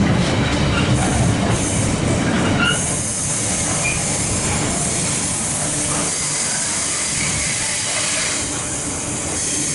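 Container wagons of a freight train rolling past close by: a steady rumble of wheels on rail with a hiss of air, and a few short high wheel squeals. The rumble eases slightly about three seconds in.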